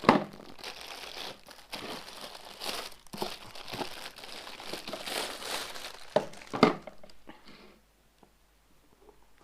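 Packaging crinkling and rustling as the starter-kit items are unwrapped by hand, with a couple of sharper knocks just at the start and about six and a half seconds in; it dies away to near quiet for the last second and a half.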